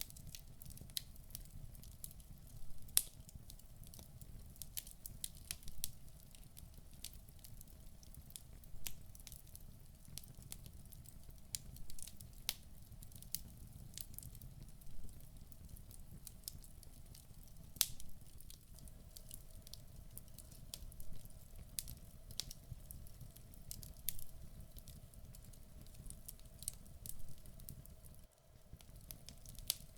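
Wood fire burning in a fireplace, with irregular sharp crackles and pops from the logs over a low rumble of flame.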